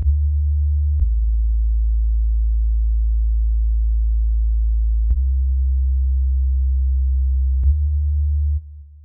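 Deep, sustained electronic bass tones, close to pure sine waves, that step to a new note three times, each change marked by a small click. They stop abruptly near the end, closing the music.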